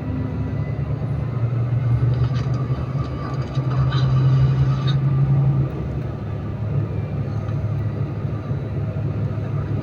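A motor vehicle's engine running with a low hum that grows louder about a second and a half in and drops back a little before six seconds, as a vehicle passes.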